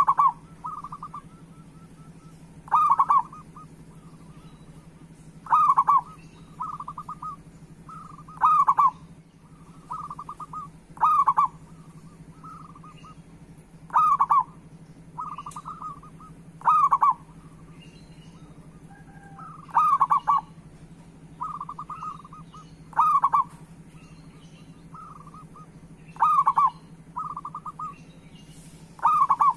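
Zebra dove (perkutut) cooing, a loud note followed by softer rolling coos, repeated about every three seconds. A steady low hum runs underneath.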